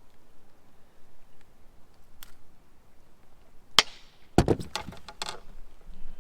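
A sharp knock about four seconds in, then a quick run of several knocks and rattles lasting about a second, against faint background noise.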